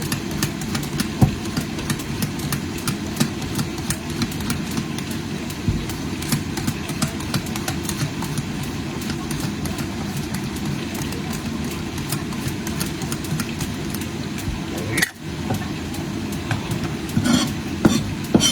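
Chicken drumsticks pan-frying in hot oil in a wok: a steady dense crackle and spatter over a low hum, with a few sharper knocks near the end.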